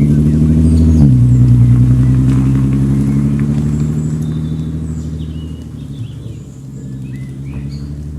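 Volkswagen Passat R36's 3.6-litre VR6 engine and exhaust under way: the engine note drops in pitch about a second in, as with a DSG upshift, then holds steady while it fades as the car moves away.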